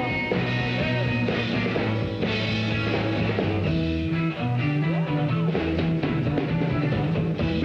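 A 1960s rock band plays an instrumental passage between vocal lines: electric guitar with bending notes over a walking bass line and drums.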